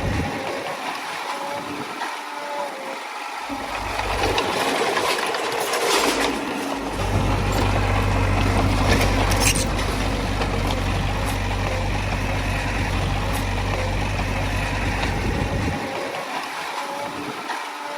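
Diesel engine of a Komatsu D20A crawler bulldozer running steadily as it works, its low rumble dropping away briefly at the start and again near the end, with a couple of sharp clanks around the middle.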